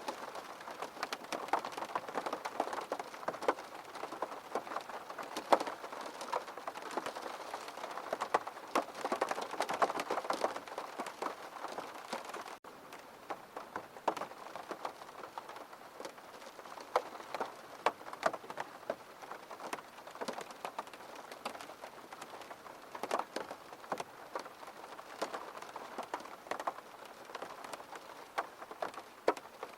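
Steady rain falling, with many individual drops tapping sharply on a surface. The rain abruptly gets quieter about twelve seconds in.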